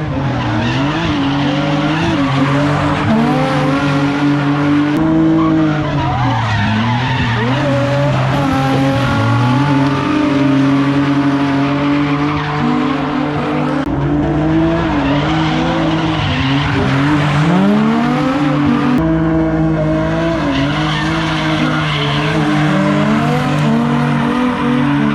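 Drift car engines revving up and down hard as they slide, with tyres squealing and skidding. The sound changes abruptly a few times, as if between different runs.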